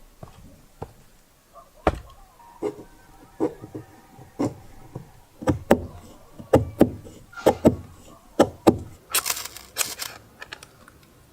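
A series of sharp knocks, slow at first and then coming faster, some in quick pairs. A brief hissing scrape about nine seconds in.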